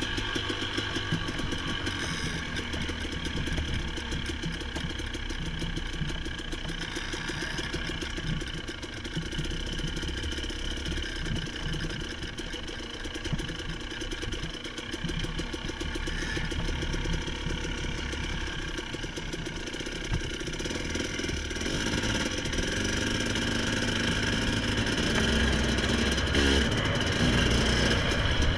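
A vehicle engine running at low speed with an even firing rhythm, growing louder over the last several seconds.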